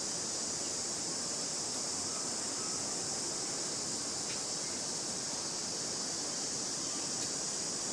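A steady high-pitched hiss that holds without change, with three faint ticks spread across it.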